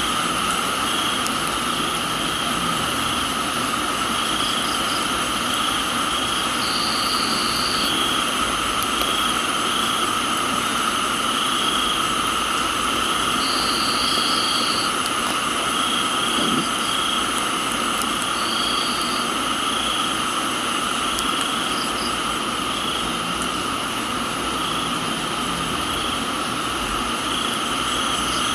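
Chorus of crickets and other insects: several steady high trills layered together, one pulsing about once a second and another coming in short bursts now and then, over an even hiss of rain.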